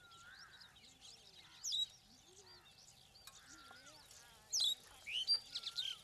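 Birds calling: a steady run of overlapping whistles and chattering chirps, with louder sharp calls about a second and a half in and a burst of them in the last second and a half.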